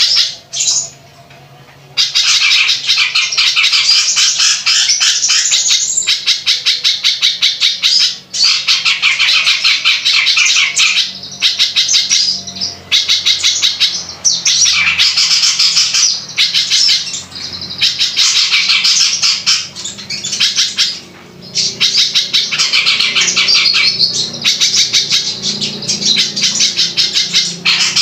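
A songbird's harsh, rapid chattering song: long phrases of fast repeated notes, broken by short pauses.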